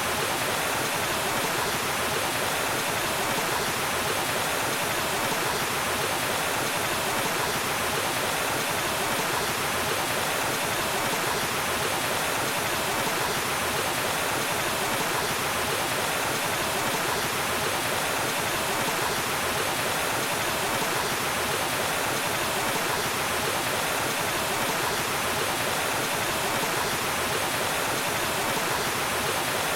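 Waterfall: water rushing and splashing in a steady, unbroken roar of white-noise-like hiss.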